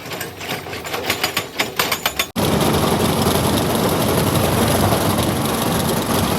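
Heavy crusher-plant machinery: rapid, irregular knocking and clattering, then an abrupt cut to a steady, loud running noise with a deep rumble.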